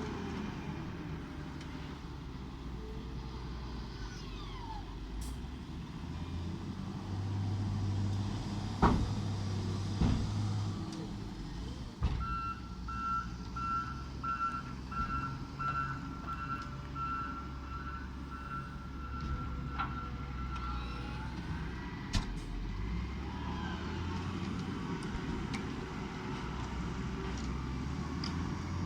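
New Holland T7 tractor engine running steadily at low revs. About two-fifths of the way in, a reversing alarm starts beeping rapidly, then holds a steady tone for a few seconds before stopping. A few sharp metallic knocks come through, the loudest about a third of the way in.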